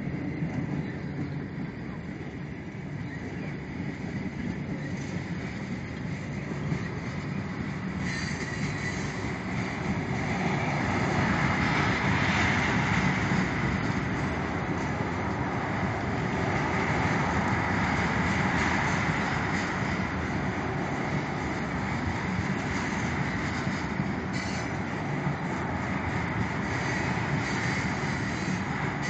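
Norfolk Southern freight train's tank cars rolling past on steel wheels, a steady rumble that grows louder about ten seconds in. A higher-pitched screech, typical of wheel squeal, joins about eight seconds in and runs on alongside the rumble.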